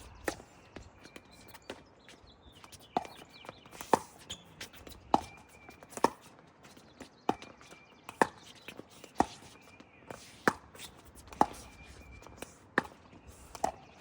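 A pickleball rally: paddles hitting the plastic ball back and forth, about one sharp pop a second, with the ball's bounces in between.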